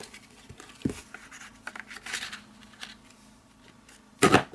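Tree Builder craft punch being worked on cardstock to cut out cloud shapes: paper rustling and light clicks, then one sharp, louder clack about four seconds in.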